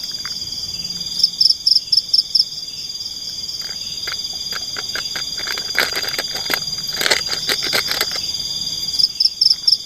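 Forest insects and frogs calling: a steady high-pitched insect drone, with a short run of rapid chirps about a second in and again near the end. Scattered clicks and knocks come in the middle.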